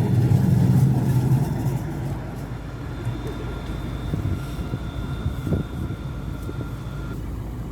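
Tram passing: a low hum that is loudest in the first second or so and then fades, with a thin steady whine from about three seconds in that stops suddenly near the end.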